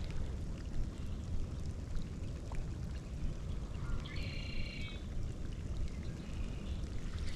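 Steady low outdoor rumble of wind and rain with light scattered patter. About four seconds in, a short high bird call.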